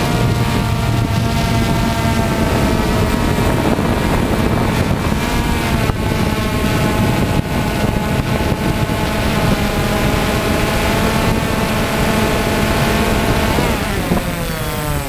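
DJI Phantom FC40 quadcopter's four brushless motors and propellers whining steadily in flight over a low rumble. Near the end the whine drops in pitch as the motors slow down.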